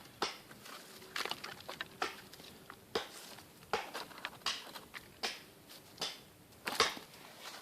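Footsteps in snow, an even run of about ten steps, a little more than one a second.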